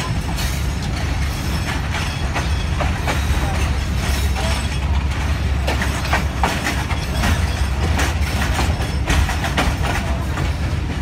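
Local passenger train rolling slowly through a station, heard from the open carriage door: a steady low rumble with irregular clicks and clacks from the wheels and couplings.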